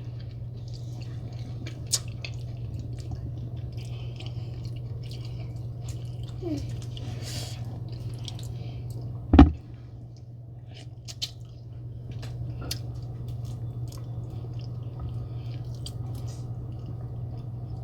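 Wet squishing and chewing of a Cajun seafood boil eaten by hand, with scattered small clicks over a steady low hum. A single sharp knock about nine seconds in is the loudest sound.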